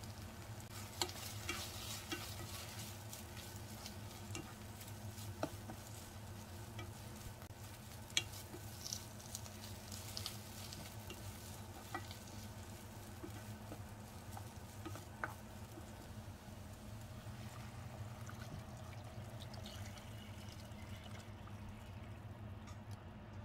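Green onions and chili powder sizzling in oil in a pot, stirred with a wooden spoon that clicks against the pot now and then: the chili powder frying to draw out chili oil. The sizzle fades near the end.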